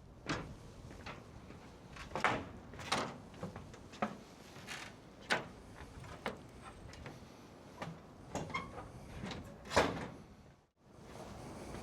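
A series of irregular sharp knocks and clacks, about a dozen in ten seconds and unevenly spaced, over a low steady background.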